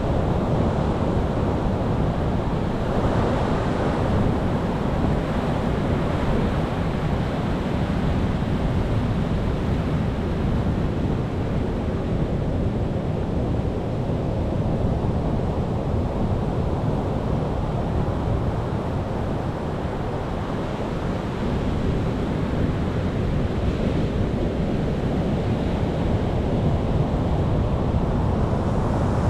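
Ocean waves washing onto the shore in a continuous rush of surf, swelling and easing slowly as sets come in.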